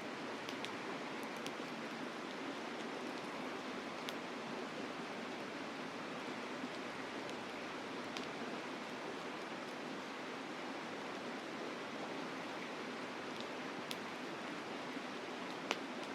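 Campfire crackling with a few scattered sharp pops over the steady rush of a mountain river.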